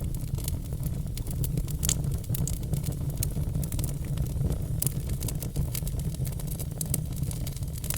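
Log fire crackling, with many small sharp pops scattered irregularly over a steady low rumble from the burning logs.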